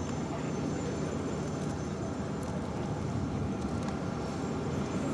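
Steady airfield rumble of aircraft engines running at a distance, with a faint steady high whine over it.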